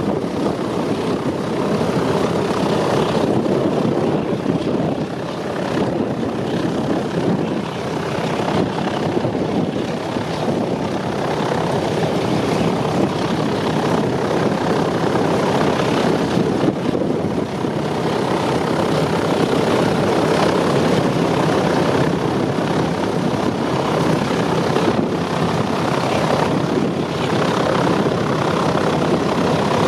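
Radial piston engines of Douglas DC-3/C-47 Dakota aircraft running steadily on the ground, a dense, loud propeller-engine rumble that swells and eases a little.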